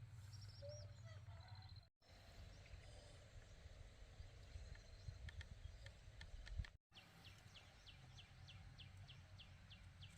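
Faint rural ambience with birds chirping and a low steady hum. In the last few seconds a fast run of short, high chirps repeats about four to five times a second.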